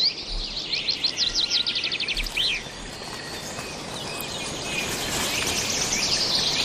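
Songbirds singing in woodland: a quick series of high chirps that speeds into a trill over the first couple of seconds, then a steady high chorus of more distant birdsong.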